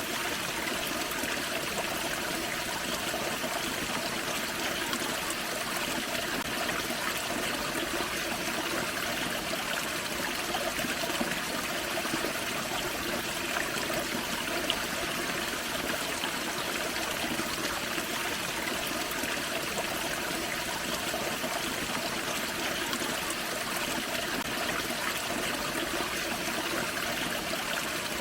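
Small forest waterfall and creek water running over rocks: a steady, even rush with splashing and trickling.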